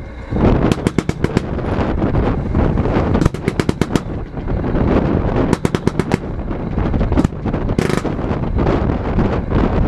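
Fireworks display: rapid volleys of sharp crackling reports and bangs in quick clusters over a continuous low rumble.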